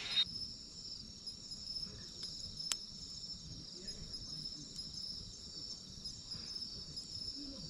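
Steady high-pitched chirring of insects, with a single sharp click about two and a half seconds in.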